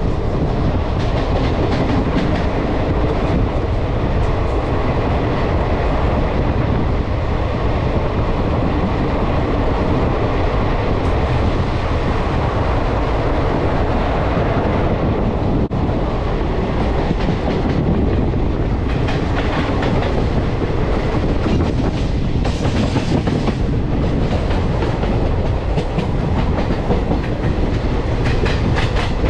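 Train running along the track, its wheels clattering over the rail joints in a steady rumble, with a busier, sharper rattle in the second half.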